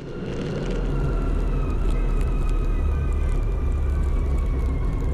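Motorcycle on the move: a steady low engine and wind rumble that fades in over the first second, with a faint high tone falling slowly in pitch throughout.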